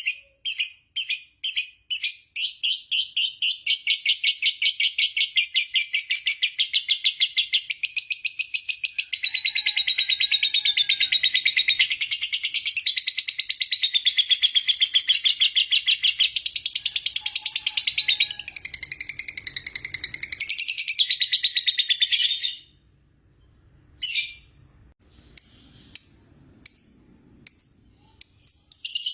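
Lovebird singing a long 'ngekek' chatter: separate sharp, high chirps speed up into a fast, unbroken rattling trill that runs for about twenty seconds, then stops abruptly. A few scattered single chirps follow near the end.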